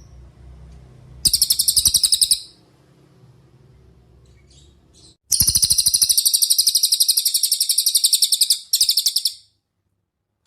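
Cililin (pygmy bushtit) trilling: three bursts of very fast, high-pitched chirping, a short trill, then a long one of about three seconds, then a brief final trill. Each burst starts and stops abruptly.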